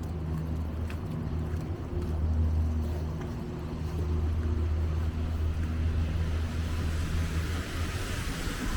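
Low, steady engine hum of an idling or slow-moving motor vehicle. Near the end a rising hiss builds, like tyres on a wet, slushy street as another vehicle comes closer.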